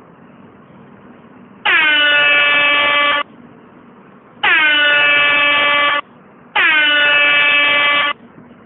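Air horn sound effect: three long blasts of about a second and a half each, the pitch dipping slightly as each one starts.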